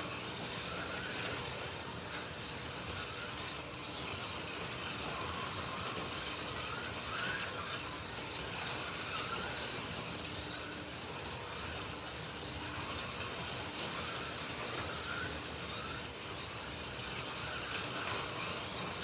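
Slot.it sidewinder slot cars (Alfa Romeo T33s and a McLaren M8D) running laps on the track: a steady whir of small electric motors and gears, with a whine that rises and falls as the cars speed up and brake.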